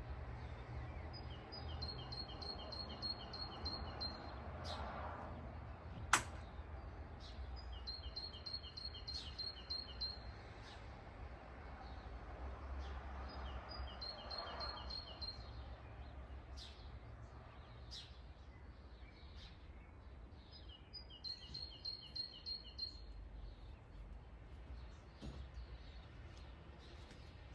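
A songbird repeating the same short song, a quick series of high notes, four times about six to seven seconds apart, with other scattered chirps over a steady low rumble. A single sharp click about six seconds in.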